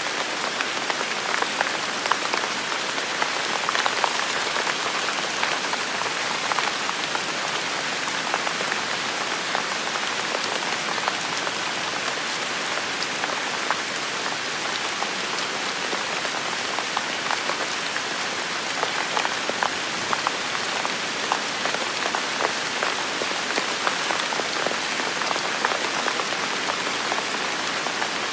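Heavy rain falling steadily, a dense even hiss with many individual drops ticking as they hit.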